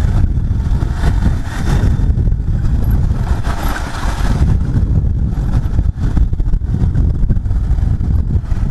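Bajaj Pulsar 150's single-cylinder engine running steadily while riding, under a heavy rumble of wind noise on the microphone.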